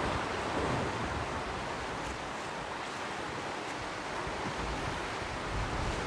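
Sea surf washing onto the beach: a steady hiss of breaking waves, with light wind buffeting the microphone.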